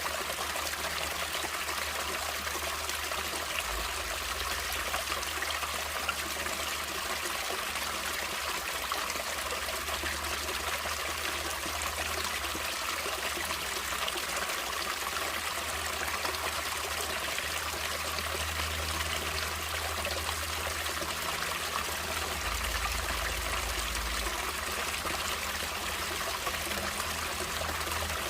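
Natural water flowing steadily: a stream running over rocks, an unbroken rushing with a low rumble beneath.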